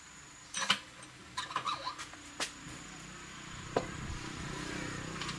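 A few scattered sharp clicks and knocks, a cluster of them around a second and a half in and a single louder one near four seconds, over a faint steady high-pitched tone.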